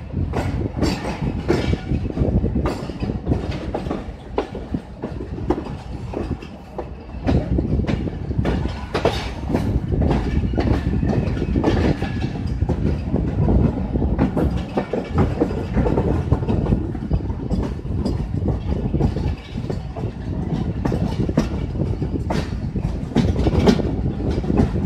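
Passenger train coaches running along the track, heard from the coach's open door: a steady rumble of wheels with frequent irregular clacks as they cross rail joints.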